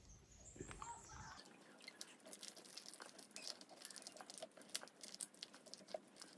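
Faint crackling and squishing of wax honeycomb being crushed by hand for crush-and-strain honey extraction: a run of small irregular clicks and crackles.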